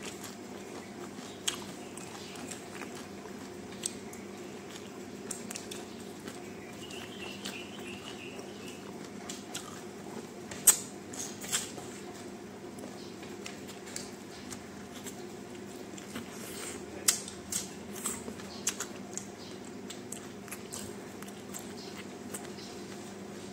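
A person chewing and biting food close to the microphone, with sharp wet mouth clicks and smacks scattered throughout, the loudest about 11 s in and again from about 17 to 19 s, over a steady low hum.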